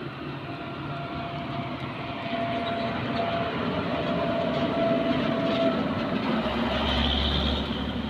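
Heavy truck engine running as the truck passes, growing louder over the first few seconds, with a thin steady whine that stops about two-thirds of the way in and a deep low rumble near the end.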